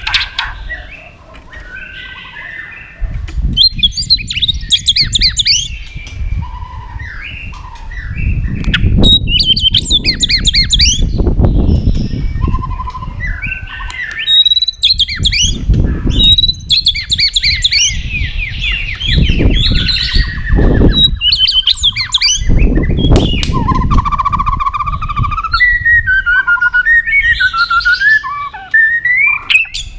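White-rumped shama singing a long, varied song of rapid trills and whistled phrases, ending in lower, winding whistles. Bursts of low rumbling thumps come and go beneath the song.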